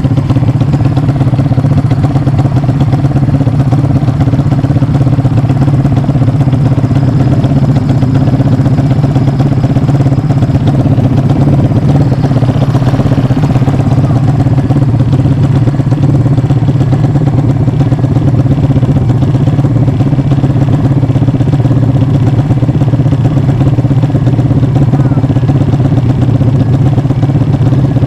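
Yamaha MX King motorcycle's single-cylinder four-stroke engine, bored out to 300cc, running steadily at an unchanging speed.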